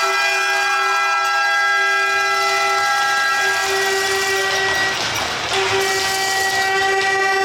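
Arena horn blaring a chord of steady tones, with a short break about five seconds in before it sounds again.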